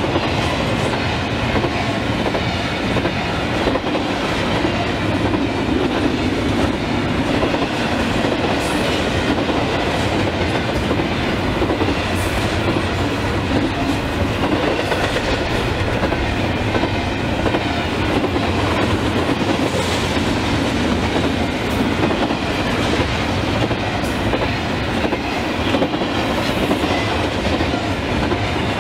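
Train running steadily along the rails, its wheels clicking over the track.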